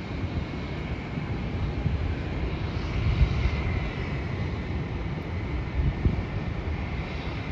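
Jet airliner engines heard from a distance: a steady rumble with a faint high whine over it, typical of a jet on its takeoff run or climb-out.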